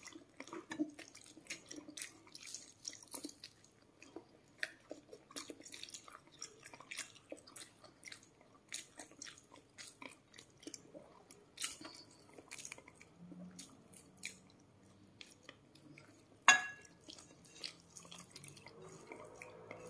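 Close-up chewing of crispy fried food eaten by hand: soft, irregular crunches, smacks and small clicks. There is one sharper click about three-quarters of the way through.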